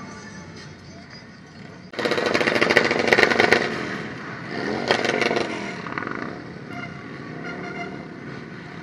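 Motorcycle engines revving hard in a large group ride over the steady running of other bikes. A sudden loud rev comes about two seconds in, and a second rising-and-falling rev comes about five seconds in.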